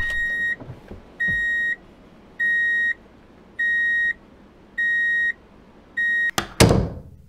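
Six steady electronic beeps of one high pitch, each about half a second long and a little over a second apart, in the pattern of a reversing warning. Near the end come two sharp plastic clacks, the loudest sounds, as a die-cast toy car is pushed into a plastic toy garage bay.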